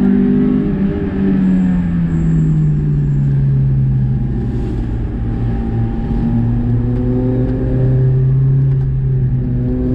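Car engine running under steady driving, with road noise. Its pitch drops over the first few seconds as the car slows, then holds low and steady, rising a little near the end.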